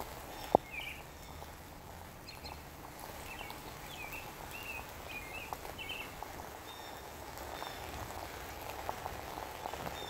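Short bird chirps, a quick run of them through the first half, over a steady patter of light rain. A single sharp tap about half a second in.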